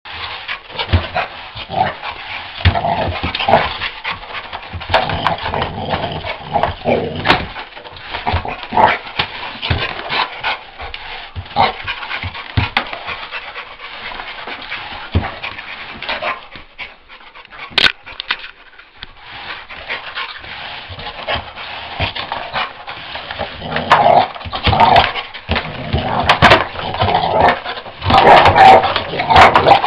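Boxer dog barking and panting in irregular bursts, mixed with many short knocks and scuffles, and louder barking over the last several seconds.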